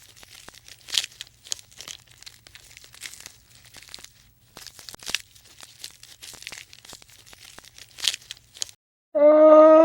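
Irregular crackling and tearing crunches for most of the stretch. Near the end a loud, steady, pitched animal call begins.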